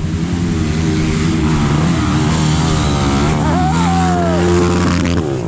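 Motorcycle engine running at a fairly steady pitch while riding, with a few wavering higher tones over it. The engine tone drops away just before the end.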